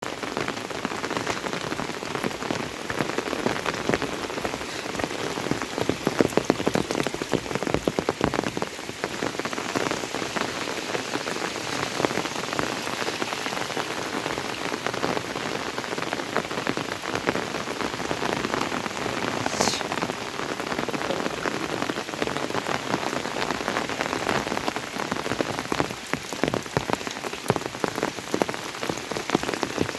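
Monsoon rain falling steadily, a dense patter of drops hitting a surface. A single short, high glide cuts through about two-thirds of the way in.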